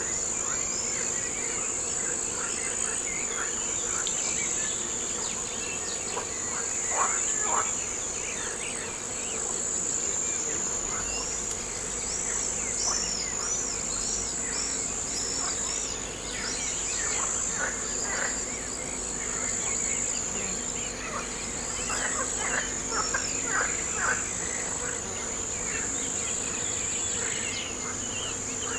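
Outdoor nature ambience: a steady high-pitched trilling of insects, with many short bird chirps scattered through it and a quick run of chirps about halfway.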